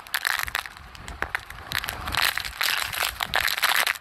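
Heavy wind-driven rain pelting the phone's plastic case in a dense, loud crackle, over wind rumbling on the microphone.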